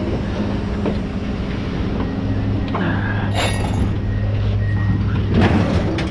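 Truck engine running steadily with a low hum, with a few light clicks and a brief high hiss about three and a half seconds in.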